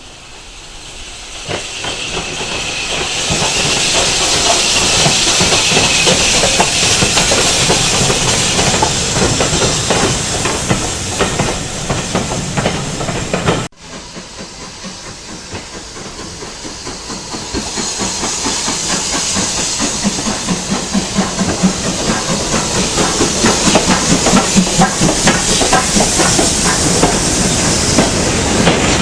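Steam locomotive hissing loudly as it draws near, the noise building over the first few seconds. After a sudden cut about halfway through, a train builds up again, with a rhythmic beat coming through near the end.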